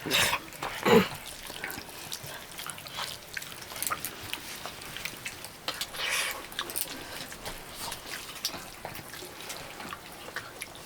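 Small clicks and knocks of plates and eating at a family meal, with two short louder sounds in the first second.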